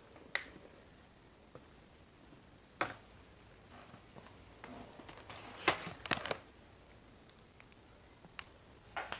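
A few sharp, separate clicks and taps, one every second or few, with a brief cluster of them about six seconds in and a faint rustle just before, in a small quiet room.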